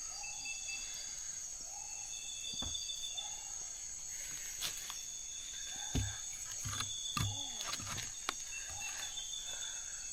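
Rainforest evening ambience: a steady high insect drone, with short calls repeating about once a second and thin high tones coming and going. A few sharp knocks and rustles of handling sound about six to eight seconds in.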